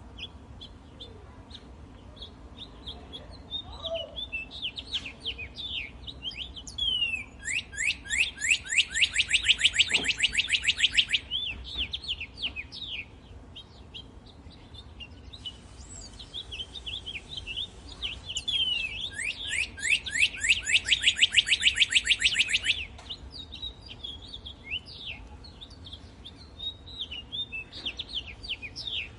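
Northern cardinal singing: two long songs of rapid, evenly repeated down-slurred whistles, each lasting about four seconds, with softer scattered chirps and calls between them.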